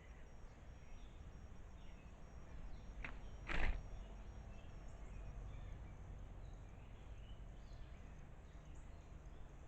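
Outdoor ambience: a steady low rumble with faint, scattered bird chirps and a thin high steady drone. About three seconds in comes a short click, followed half a second later by a brief, much louder noise.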